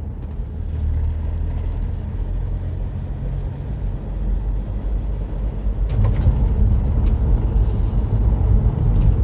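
Van interior while driving: a steady low engine drone and road rumble, with the van running in limp mode. About six seconds in there is a sharp knock and the rumble gets louder.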